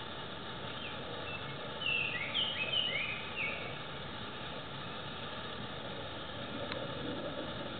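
A bird giving a quick series of about half a dozen short, high, sliding call notes about two seconds in, over a steady background hiss.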